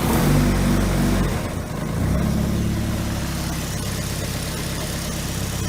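Nissan Silvia S13 engine catching after cranking and running, dipping briefly about one and a half seconds in, then settling into a steady idle.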